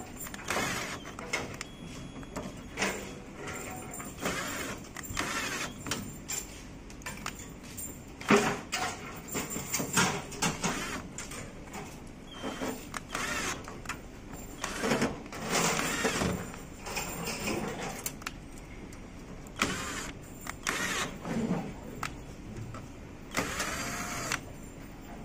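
Irregular scraping, rustling and clicking of hands and small tools working on an air conditioner's electrical wiring, hooking the wires up to the unit.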